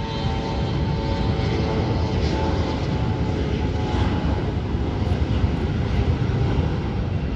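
Airliner engines running with a steady rumble, with a few faint whining tones that fade out in the first couple of seconds.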